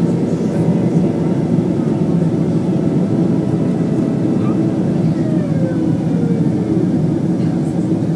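Steady engine and airflow noise inside the cabin of a Boeing 767-300ER on its landing approach, with a tone that falls in pitch about five seconds in.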